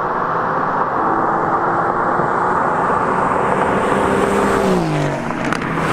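Two Mercedes-AMG cars, a silver AMG GT and a blue A45, running hard down a runway toward and past the listener. Their engine note holds steady and grows louder, then drops in pitch about five seconds in as they go by.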